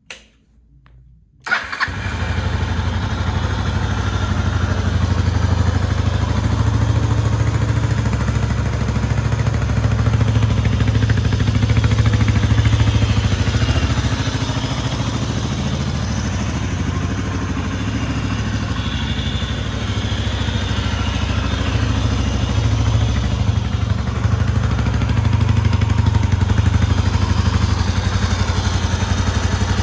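Kawasaki 250TR's single-cylinder four-stroke engine, fitted with a BAEMS aftermarket full exhaust, starting about a second and a half in and then running steadily at idle, with slight rises and falls in engine speed.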